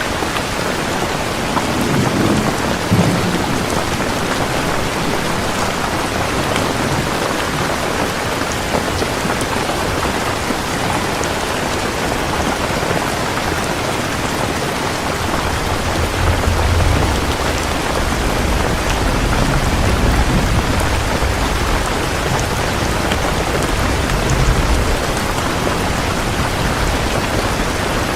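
Heavy rain falling steadily, with a brief low rumble of thunder about two seconds in and a longer rolling rumble of thunder in the second half.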